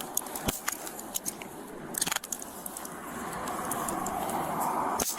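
Handcuffs being put on: metal clicks and jingling, with clothing rustling and scuffling, and a few sharper knocks.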